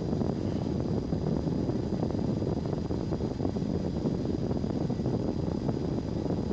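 Cessna 172S's four-cylinder Lycoming engine and propeller droning steadily in the cockpit during flight, a dense low noise with a faint thin high whine over it.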